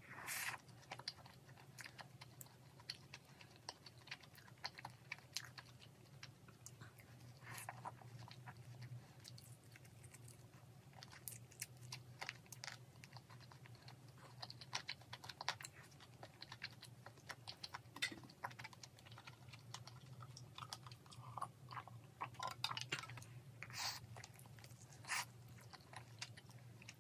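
Close-miked chewing and mouth sounds of a person eating rice and glazed fried chicken: many small wet clicks and soft crunches, with a few louder ones, over a steady low hum.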